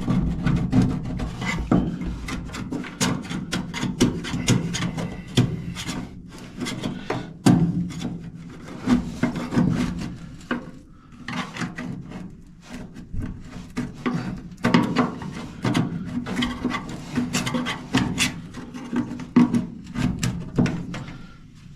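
Hand scraper scraping and gouging cracked seam sealer out of a seam in a Mk2 Ford Escort's steel rear wheel arch, in quick irregular strokes. The sealer has stayed soft where it was laid on too thick to set.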